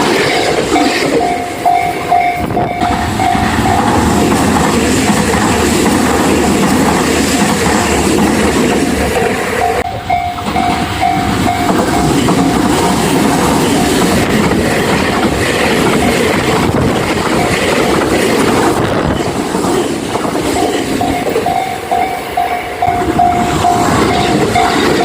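A train passes over a Japanese railway level crossing, its wheels clattering on the rail joints, while the crossing's warning bell rings in a fast repeated ding. The bell is heard clearly at the start, again briefly partway through and near the end, and is drowned out by the train in between.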